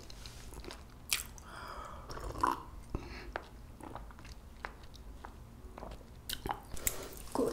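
Close-miked chewing of jeungpyeon, a soft, spongy Korean rice cake, with scattered small mouth clicks.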